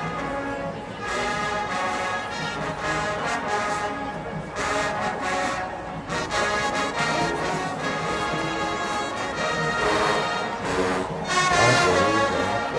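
HBCU marching band brass section playing a stand tune, full and loud, with trombones and horns carrying the melody.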